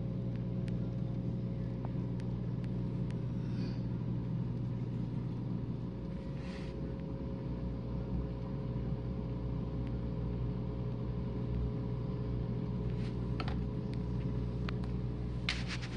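Whirlpool dishwasher drain pump running with a steady low hum and a faint whine, then switching off suddenly at the end as the drain finishes.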